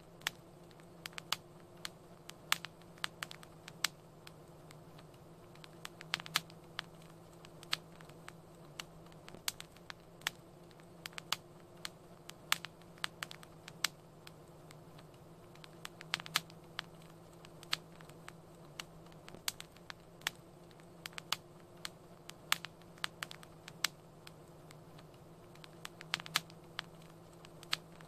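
Wood fire crackling: irregular sharp pops and snaps, several a second at times, over a steady low rumble of burning.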